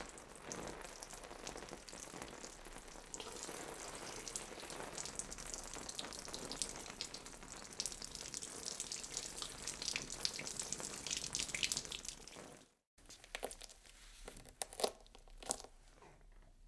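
Dense, wet-sounding crackling noise full of small clicks for about thirteen seconds, cutting off suddenly; then a few separate sharp crackles.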